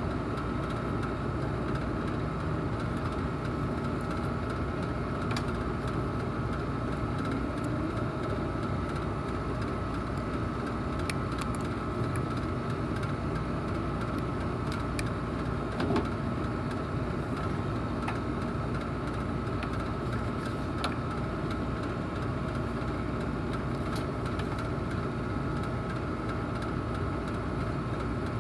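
Steady drone of running air-conditioning equipment, with fixed hum tones and an even level. Faint scattered clicks run over it, and there is a slightly louder knock about 16 seconds in.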